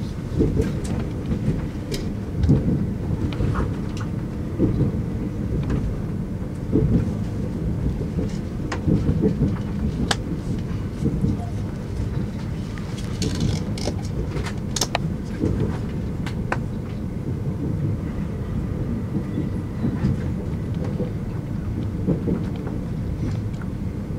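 Interior running noise of a Super Hakucho limited express electric train approaching a station: a steady low rumble of wheels on rail, with scattered sharp clicks from rail joints and points, a small cluster of them about halfway through.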